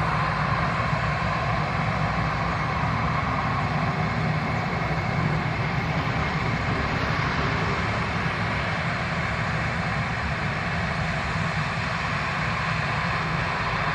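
Boeing 737-800's CFM56 jet engines running steadily at low power as the airliner taxis after landing.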